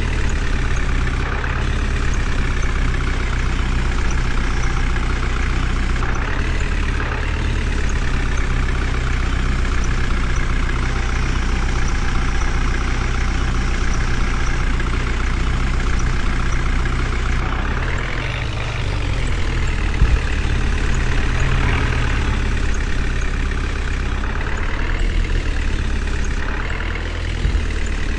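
Heavy vehicle's diesel engine running steadily, its revs rising and falling a few times.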